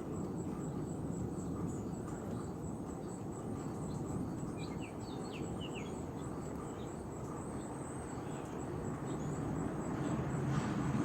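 Outdoor ambience of a steady low rumble, with a small bird giving a quick run of short chirps about halfway through.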